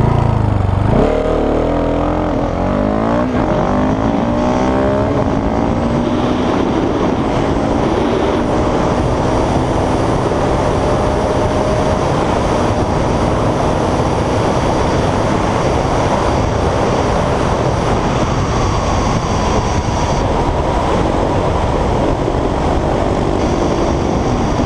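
Husqvarna 701 Supermoto's single-cylinder engine, fitted with an Akrapovič exhaust, accelerating hard from a standstill. The revs climb and drop back with several quick gear changes over the first five seconds or so, then it runs on at a steadier pitch under heavy wind rush.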